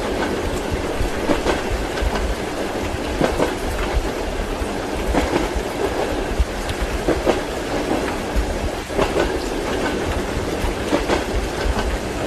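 Train wheels clacking over rail joints in quick clusters about every two seconds, over a steady rolling rumble of the moving carriage.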